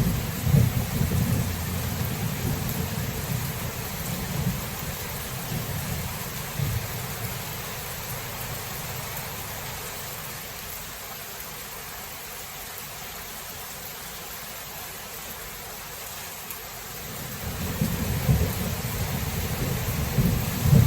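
Thunderstorm: steady rain hissing, with low rolling thunder rumbles that fade away around the middle and build up again near the end.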